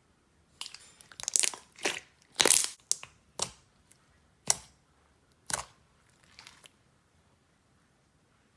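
Clear slime being pressed and squeezed by hand, giving a string of sharp crackling pops. They come thick in the first few seconds, then thin out to single pops with longer gaps.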